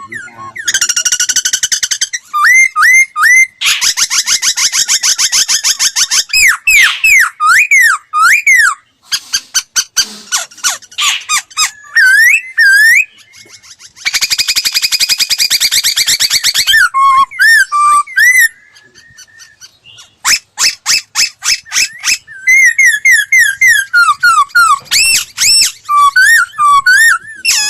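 Laughingthrush (khướu) singing a long, varied song: fast trills, rapid repeated notes and whistled up-and-down glides, mixed with harsher buzzy passages, broken by a few short pauses.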